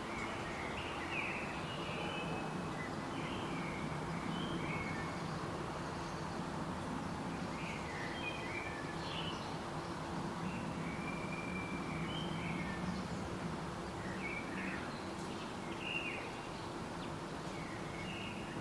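Birds chirping and calling in short, scattered notes, over a steady low background hum and noise.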